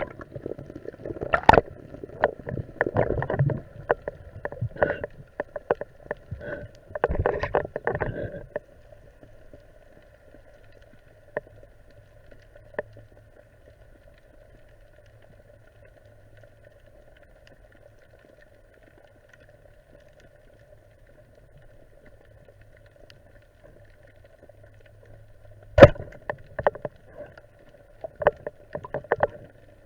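A steady motor hum heard underwater, with clusters of sharp knocks and clatter for the first eight seconds or so and again near the end.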